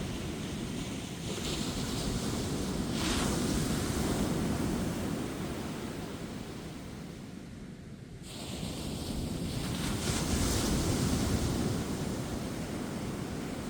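Ocean surf breaking and washing up a beach: two swells of wave noise, the first a few seconds in and the second, the loudest, about two-thirds of the way through, with a short lull between them.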